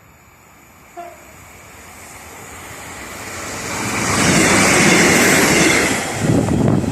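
A train approaching and passing at speed: the rush of wheels on rail and air builds steadily, is loudest from about four to six seconds in, then falls away, with a rumble of wheels near the end.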